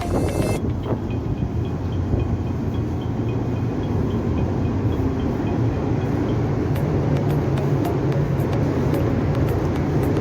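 Steady low mechanical rumble with a deep hum, as of a car ferry's engines running underway. Background music cuts off just after the start.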